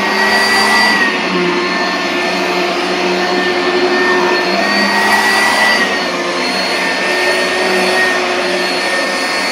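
Oreck XL2800 upright vacuum cleaner running steadily on carpeted stairs, a continuous motor whine over airflow rush, its pitch rising slightly twice.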